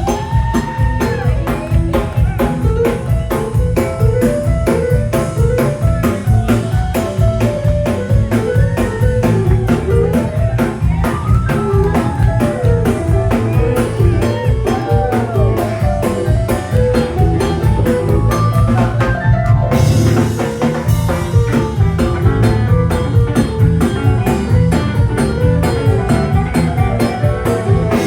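Blues band playing an instrumental break at a steady shuffle: drum kit and bass under a guitar lead with bent, sliding notes.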